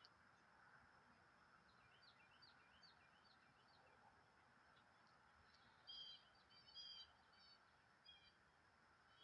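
Faint small-bird chirps: a quick run of short chirps about two seconds in, then a louder burst of twittering around six to eight seconds, over a low steady background hiss.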